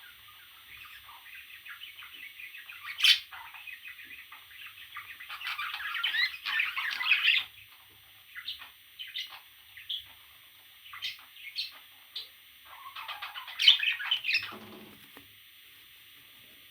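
Parrot chicks squawking in bursts: a sharp call about three seconds in, a longer run of calls around the middle, scattered short calls after it, and another run near the end.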